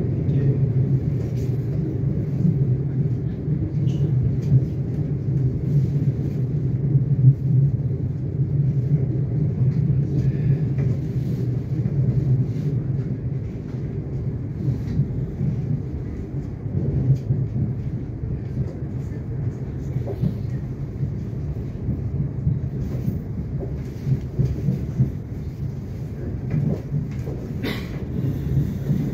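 Interior rumble of a Melbourne Metro electric suburban train running on the track, steady and low, with scattered clicks and knocks from the wheels and carriage. It gets a little quieter in the second half.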